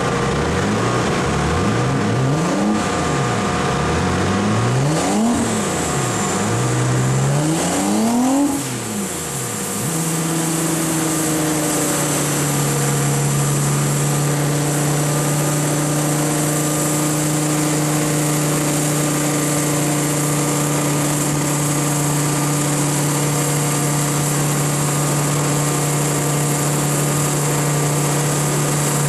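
E36 BMW M3's straight-six engine on a chassis dyno, blipped up and down several times, the last rev climbing highest, then held at a steady speed from about ten seconds on.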